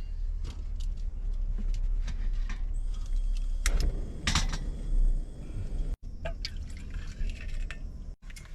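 Water pouring and splashing, with scattered light clicks and knocks and two louder splashy bursts near the middle.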